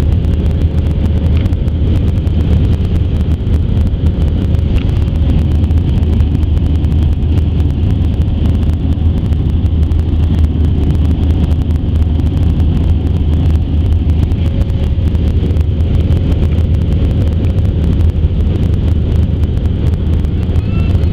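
Steady, loud cabin drone of an Airbus A320-212 airliner, with the deep rumble of its CFM engines and the rush of airflow, heard from inside the passenger cabin. A faint steady whine sits above the rumble.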